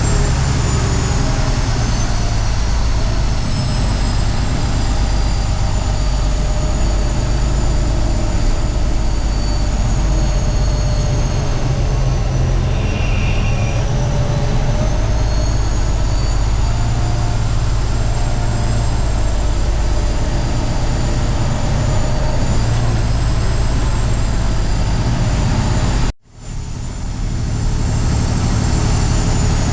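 Heavy diesel truck engine running steadily with a deep rumble and a faint high whine over it. Near the end the sound cuts out for a moment and then comes back.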